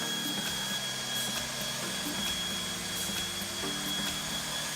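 Electric belt sander running steadily on oak, a constant motor whine over a low hum, with a slight change in the hum's pitch about three and a half seconds in as the load shifts.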